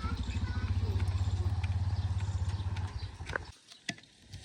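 Heavy diesel engine idling with a rapid, even low thudding, which cuts off abruptly about three and a half seconds in; a couple of sharp clicks follow.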